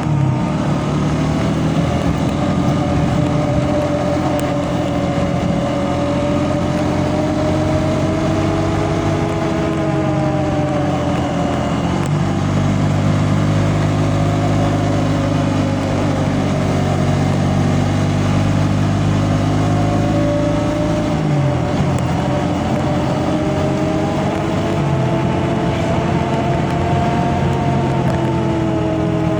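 A vehicle engine running continuously, its note slowly rising and falling with speed, and changing abruptly a couple of times, about twelve and twenty-one seconds in.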